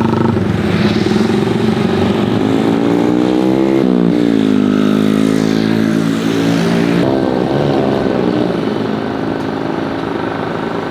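Loud engine noise whose pitch climbs steadily for about four seconds, drops abruptly, then sinks gradually, changing again suddenly about two-thirds of the way through.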